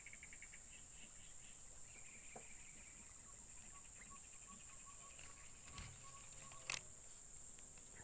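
Insects chirping in the background: a steady high buzz with fast pulsed trills. A single sharp click comes near the end.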